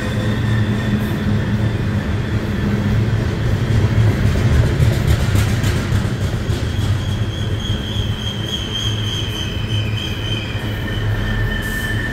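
Loaded coal train's hopper cars rolling past: a steady low rumble of steel wheels on rail, with a high-pitched wheel squeal that fades out just after the start and comes back strongly from about seven seconds in.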